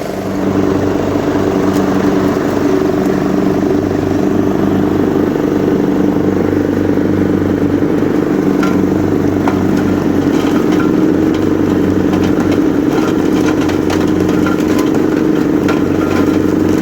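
Lawn mower engine running at a steady speed with an even, unchanging drone, a few light ticks over it.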